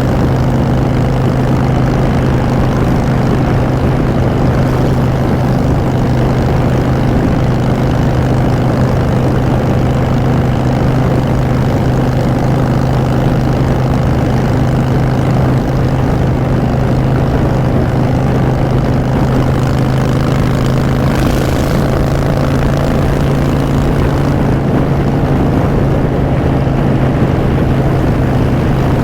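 Harley-Davidson Street Bob's air-cooled V-twin running through Vance & Hines Short Shots exhaust at a steady cruising speed, the engine note unchanging. A short hiss passes about three-quarters of the way through.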